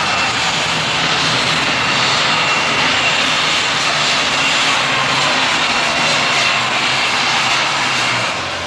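Super stock pulling tractor's turbocharged engine running flat out under load down the pull track, with a steady high whine over the engine noise, fading near the end.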